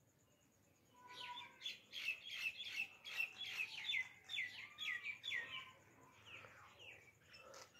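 A bird chirping in a quick run of short, high notes, about five a second, starting about a second in and tailing off into a few fainter calls after about five seconds.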